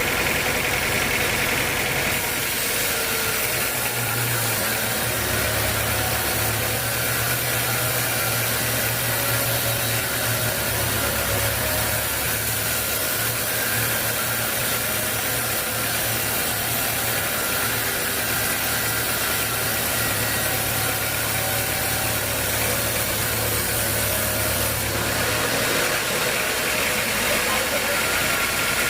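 Sawmill machinery running steadily, with an engine-like drone. A deeper low hum sets in about four seconds in and drops out near the end, likely as the saw takes on and then comes off a load.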